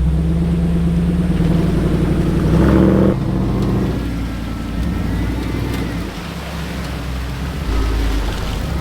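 Off-road truck engine working under load to drive out of deep river water: the revs climb to a peak about three seconds in, drop back, and rise again near the end.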